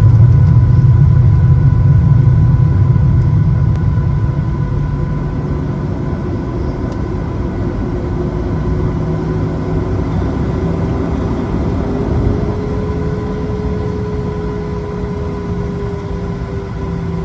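Cabin noise of a Boeing 737-700 with its CFM56-7B engines running: a low rumble that is loudest at the start and eases over the first several seconds. Under it, a faint whining engine tone slowly rises, then dips a little near the end.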